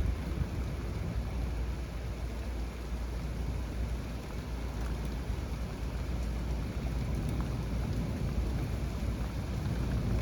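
Heavy rain pouring steadily during a thunderstorm, over a continuous deep rumble.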